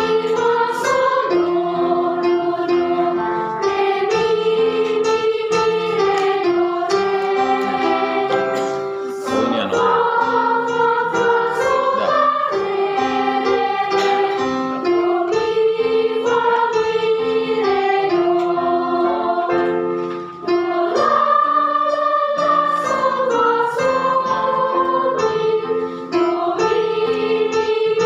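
Children's choir singing a song together in sustained, stepwise-moving lines over a steady, rhythmic instrumental accompaniment, with a short breath pause about 20 seconds in.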